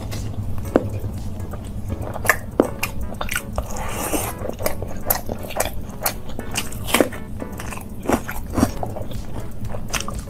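Close-miked wet chewing and lip-smacking of a person eating rice and curry by hand, with many sharp, irregular mouth clicks and smacks.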